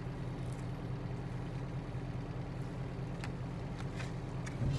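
Truck's diesel engine idling with a steady low hum, heard inside the cab, with a few faint clicks and a short low knock near the end.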